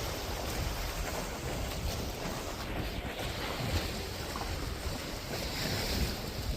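Wind rushing over the microphone with a steady low rumble and the wash of water.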